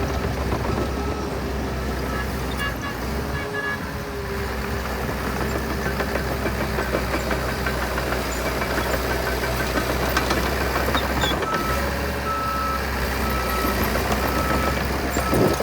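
Diesel engine of heavy earthmoving machinery running steadily. A backup alarm beeps at about one beep a second in the second half.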